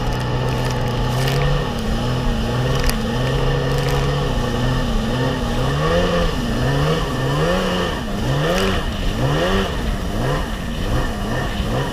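Sea-Doo XP jet ski's two-stroke engine run gently while it warms up: a steady low rev for the first few seconds, then from about halfway the revs rise and fall back again and again, roughly once a second.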